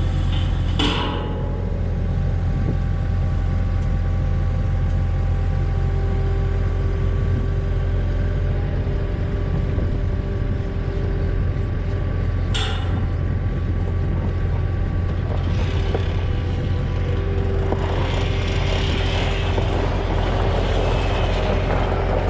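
Heavy-equipment diesel engine running steadily under load, with a single sharp knock about halfway through and a rougher, noisier stretch near the end.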